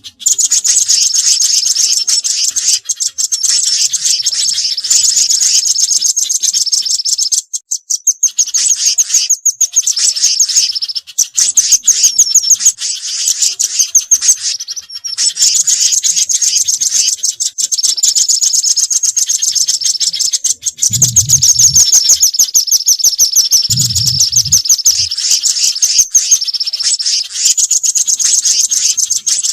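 Small songbirds chirping in rapid, dense high-pitched strings, a bird-catcher's lure call mixing birds such as the velvet-fronted nuthatch and spiderhunters. Two short low thumps come about 21 and 24 seconds in.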